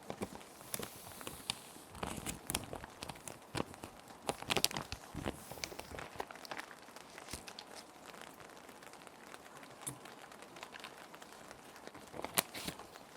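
Plastic sheet protectors crinkling and rustling in irregular bursts as paper sheets are slid in and handled, over a steady bed of gentle rain. The crinkling is busiest a couple of seconds in and again near the end.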